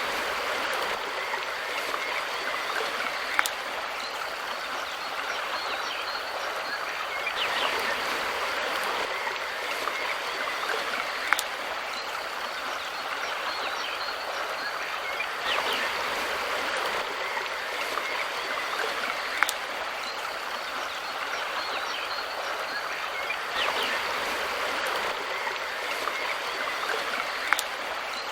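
Mountain river rushing steadily, swelling slightly about every eight seconds, with a single sharp click recurring at the same spacing.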